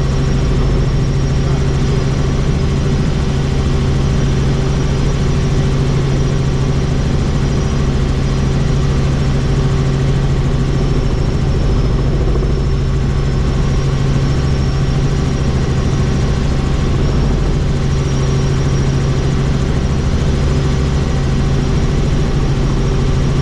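Helicopter in flight, heard from inside the cabin: a steady, loud drone of rotor and turbine with a deep hum and a thin, high whine above it.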